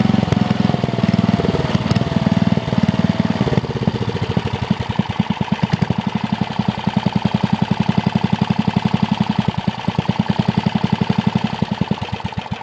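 Old single-cylinder flathead Briggs & Stratton snowblower engine running: about four seconds in, its speed drops and the firing settles into slow, evenly spaced, distinct pulses, and the sound starts to fade near the end. It runs, but the owner reckons the uncleaned carburetor still needs adjusting.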